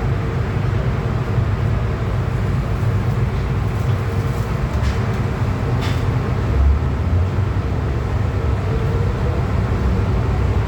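MTR M-Train electric multiple unit running in a tunnel, heard from on board: a loud, steady rumble of wheels on rail with faint motor tones above it.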